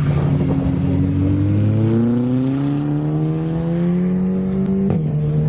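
Car engine accelerating hard, its pitch rising steadily for about four seconds, then dropping abruptly with a click near the end as it changes up a gear.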